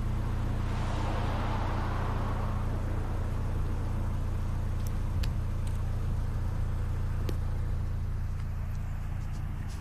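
VW Golf GTI engine running at a steady speed, with a hissing swell of noise about a second in and a few sharp ticks around the middle.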